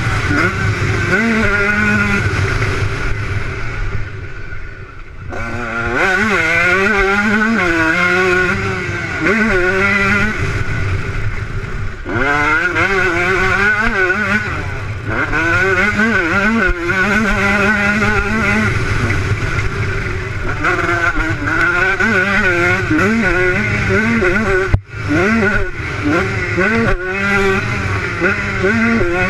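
Motocross motorcycle engines revving hard, the pitch climbing and falling again and again as the bikes accelerate and shift. There is a quieter stretch about four seconds in and a brief sudden break near the end.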